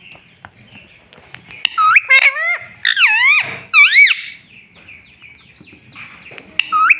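Rose-ringed (Indian ringneck) parakeet squawking: several loud, harsh calls in quick clusters, then a pause and another call near the end.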